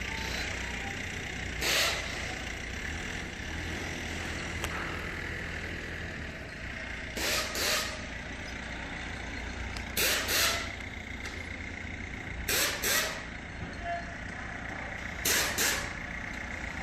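Truck's compressed-air system giving short hisses, mostly in pairs a few seconds apart, over a steady vehicle hum.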